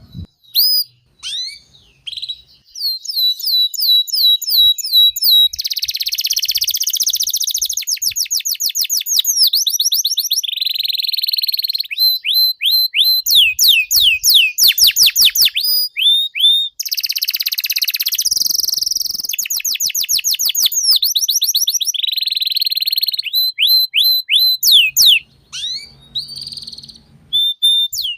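Domestic canary singing a long, continuous song. It opens with a few separate chirps, then runs through rapid trills of fast repeated sweeping notes alternating with buzzy rolls, with one short pause near the end.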